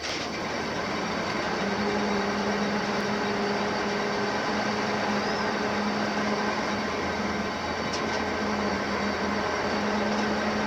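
Steady machinery noise from a crane lifting a locomotive in a workshop, with a low, even hum that sets in about one and a half seconds in.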